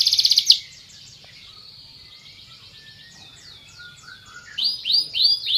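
Domestic canary singing: a fast trill that breaks off about half a second in, a few faint notes, then loud downward-sweeping whistled notes, about three a second, near the end.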